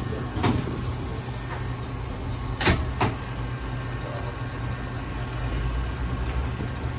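Inside an electric train car pulling away from a station: a steady low rumble of the running train, broken by a few sharp clunks, the loudest nearly three seconds in.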